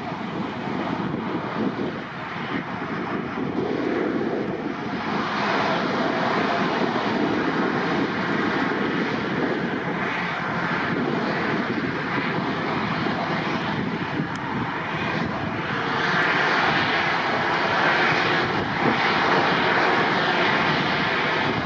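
Jet engine noise of an Airbus A320-214's CFM56-5B turbofans as the airliner lands. It is a steady rushing noise that grows louder and brighter about five seconds in and swells again in the last few seconds.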